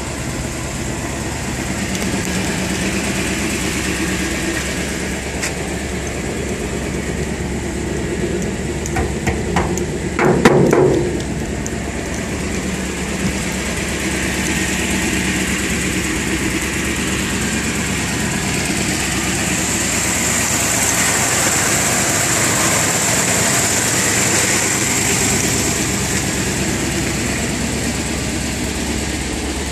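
A 1975 Chevy 4x4 pickup's engine running steadily, with a brief cluster of loud knocks and clatter about ten seconds in.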